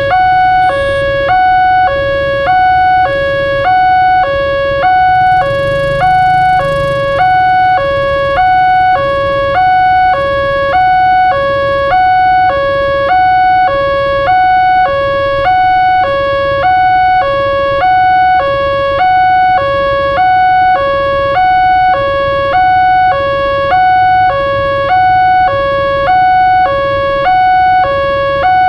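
Electronic railroad crossing warning alarm sounding a continuous two-tone ding-dong, a higher and a lower tone alternating about every half second, with a low rumble underneath.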